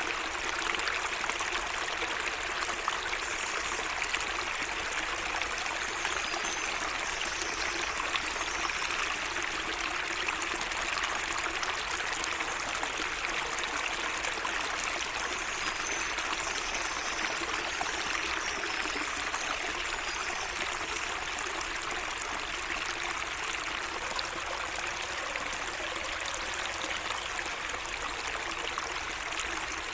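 Water of a small garden stream trickling and running steadily. Faint high bird chirps come through twice.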